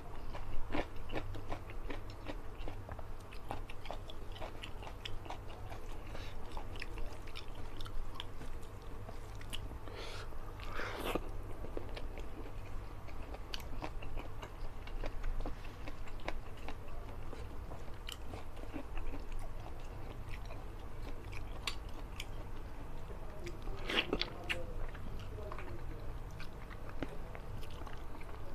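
Close-miked eating sounds of a person chewing rice and fish-head curry eaten by hand: wet mouth smacks, small clicks and occasional crunches, with a few louder bites around a third of the way in and again near the end. A low steady hum runs underneath.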